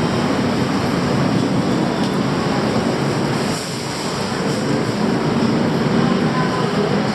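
A train running: a steady rumble and hiss that dips briefly in level just past the middle.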